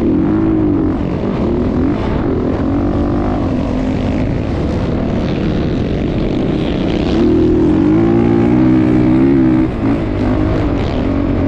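Motocross bike engines revving and easing off, the pitch rising and falling over and over. It is louder for a couple of seconds past the middle, then drops briefly.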